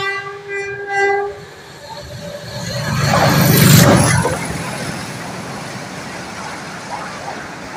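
Horn of a Hitachi diesel-electric locomotive, its blast cutting off about a second in. The express locomotive then rushes past at speed, loudest between three and four seconds in, followed by a steady rumble of its passenger coaches rolling by.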